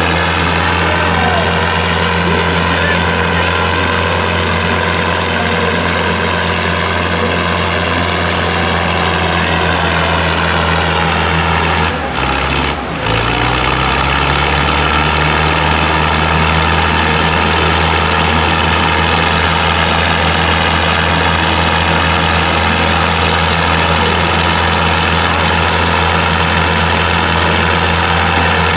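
Tractor diesel engine running hard at high revs under heavy pulling load in a tug-of-war, a steady drone. About 12 seconds in it briefly dips and the engine note drops, then climbs back up over a couple of seconds.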